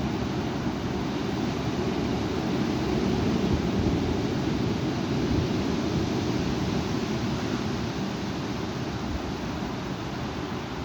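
Strong wind gusting and buffeting the microphone, a steady low rumbling rush that swells a few seconds in and eases somewhat near the end.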